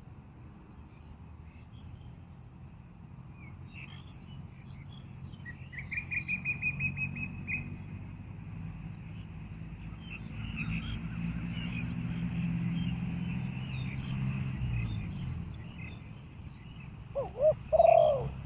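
Small birds chirping, with a fast high trill of about eight notes around six seconds in, then near the end a spotted dove cooing loudly in two or three low, arching notes. A low rumble swells and fades in the middle.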